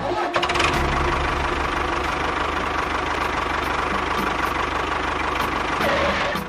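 An engine running steadily with a fast, even knocking pulse, starting and cutting off abruptly.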